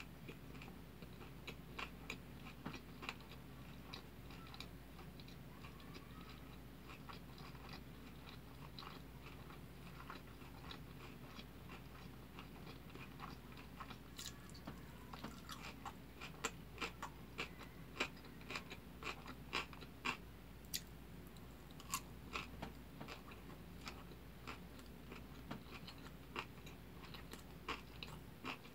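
Close-miked chewing of kimbap with soft mouth sounds. From about halfway through, crisp crunches come as a piece of pickled radish is bitten and chewed.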